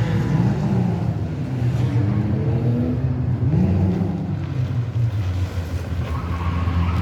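Rally car engine revving, its pitch rising and falling several times as the car is driven hard.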